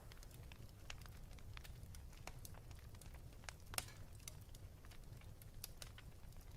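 Wood fire in a fireplace crackling, with scattered sharp pops, one louder pop nearly four seconds in, over a low steady rumble.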